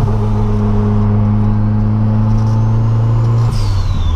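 Turbocharged VW Gol's engine and gearbox running at a steady drone under load inside the cabin. About three and a half seconds in, the note drops and a high whine falls away in pitch. The owner fears the gearbox whine comes from gears worn after an oil leak.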